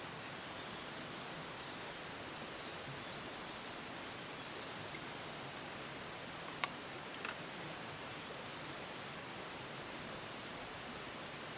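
Forest ambience: a steady even hiss with faint, high bird chirps scattered through, and two sharp clicks a little past halfway.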